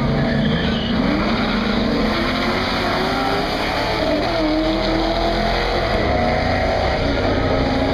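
Loud engine noise from a Ford Mustang GT with a 410 cubic-inch Windsor V8 and a Chevy pickup truck. The engine pitch climbs slowly through the middle as they pull.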